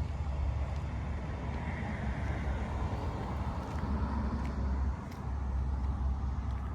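Scania P113 truck's 11-litre straight-six diesel running, a deep steady rumble that steps up in level at the start, with a short dip about five seconds in.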